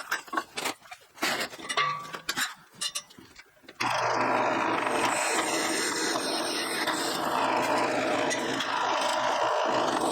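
Scattered clinks and knocks of metal stock being handled. About four seconds in, a power tool starts abruptly and runs loud and steady, cutting metal.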